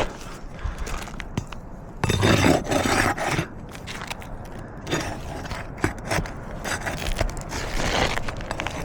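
Asphalt roof shingle being pried up and scraped loose, with a louder stretch of scraping and tearing about two seconds in and again near the end. The shingle tears as it comes free, which counts as a failed repairability test.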